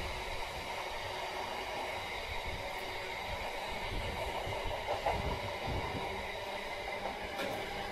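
Loaded container wagons of a heavy intermodal freight train rolling past: a steady rumble of wheels on rail with a few low knocks, and a faint steady whine underneath.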